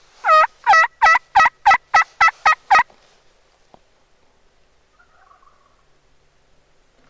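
Series of nine loud hen-turkey yelps, the notes growing shorter and quicker through about three seconds.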